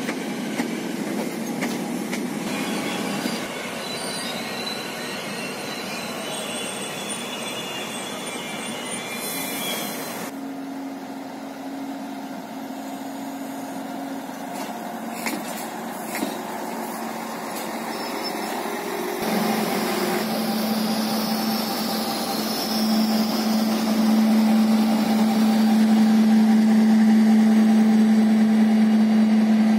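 Passenger trains moving through a station: an electric multiple unit running past with some wheel squeal, then another train. About two-thirds of the way in, a diesel locomotive's engine starts running with a steady drone. The drone grows louder and is the loudest sound near the end.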